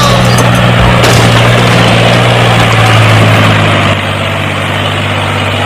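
Engine idling steadily with a low, even hum and a rough noisy rattle, dropping slightly in level about four seconds in.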